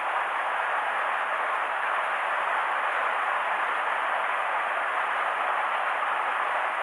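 Steady rush of water pouring over a drop or weir, an even hiss with no breaks.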